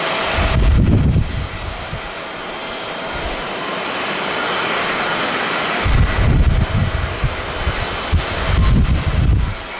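Jet airliner engine noise, a steady rushing across the whole range, with gusts of strong wind buffeting the microphone in low rumbling surges, once near the start and again through the second half.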